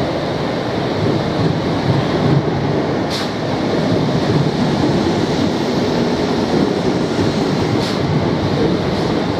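Southern Class 455 electric multiple unit running past along the platform, a steady rumble of wheels and motors. Two brief sharp clicks or squeaks come about 3 s and 8 s in.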